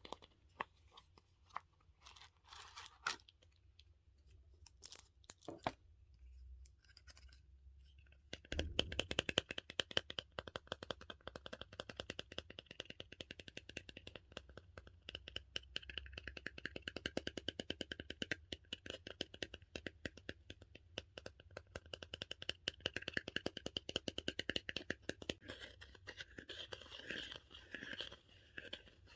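Close-miked ASMR handling of a dumpling-shaped squishy toy and its plastic packaging: a few scattered taps at first, then from about eight seconds in a dense, continuous crackling.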